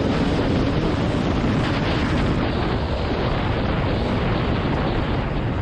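TM 300ES two-stroke motocross bike running hard around the track, its engine partly buried under loud wind buffeting on the microphone.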